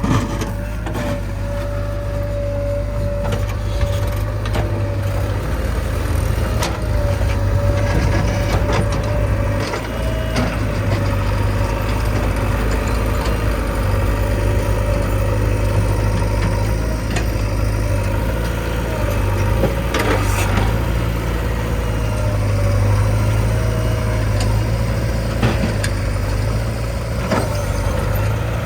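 Heavy diesel engine running steadily under load, with a wavering whine over its low hum and a few sharp knocks or clunks.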